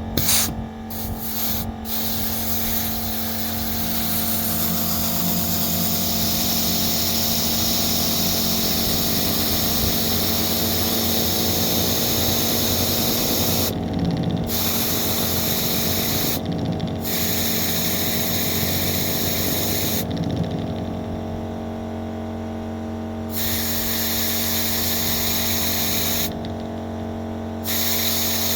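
Model elbow engine running steadily on compressed air, with a constant hiss of air and mechanical running noise. The high hiss drops away briefly four times, the longest gap lasting about three seconds in the second half.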